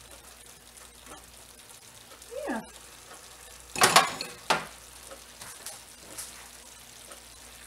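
Steak, onions and bell peppers sizzling steadily in a frying pan. Around four seconds in comes a loud clatter of sharp knocks, a utensil striking the pan as the food is stirred.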